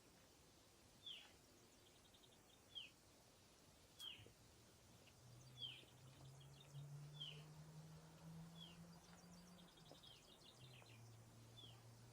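A songbird calling over and over: a short downward whistle about once a second, with brief chattering trills between. A faint low hum comes in about four seconds in and runs under the calls.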